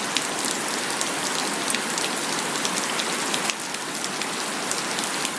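Heavy rain pouring down steadily, a dense hiss with many sharp drips and drops hitting surfaces close by.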